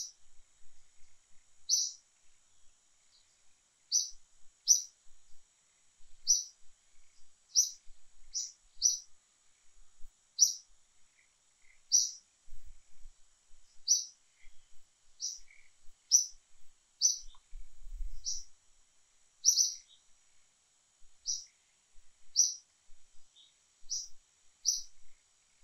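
A bird chirping: short, high, falling chirps repeated every second or two, over a faint steady high-pitched hiss.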